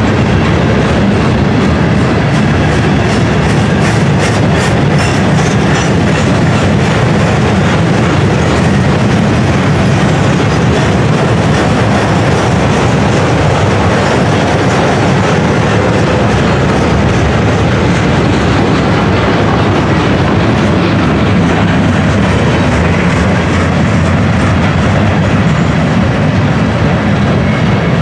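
Freight train of steel gondola cars rolling steadily past: a loud, continuous rumble and rattle of steel wheels on rail, with a rhythmic clickety-clack of the wheels.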